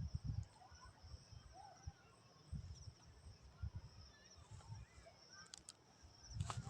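Birds chirping in short scattered calls over a steady high-pitched hiss, with irregular low thumps.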